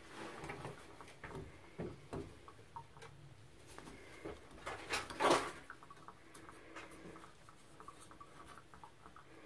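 Small scraping, rubbing and light clicking as old rubber O-rings are worked off a Kohler shower valve part by hand, with a louder scrape about five seconds in.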